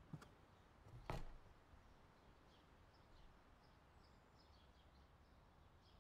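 Near-silent outdoor quiet with faint, short bird chirps in the background. There is one sharp click about a second in.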